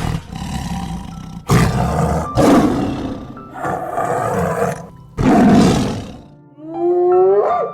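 Lion roaring, a series of five deep, rough calls, with background music underneath. Near the end a different, higher pitched call wavers up and down.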